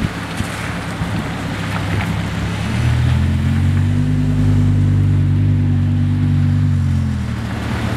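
Batmobile replica car's engine running with a steady low drone, coming in strongly about three seconds in, rising a little, holding, then easing off near the end. A rushing noise fills the first few seconds before it.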